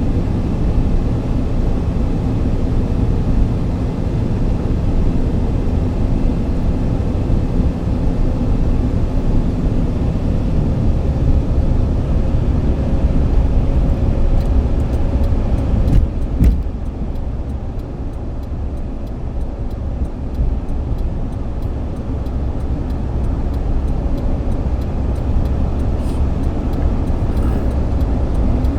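Steady low rumble of a moving vehicle, with a single sharp knock about halfway through, after which the rumble is a little quieter.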